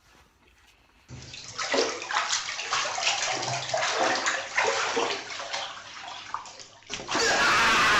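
Splashing, rushing water starting about a second in, with a louder, denser burst of the same kind of noise near the end.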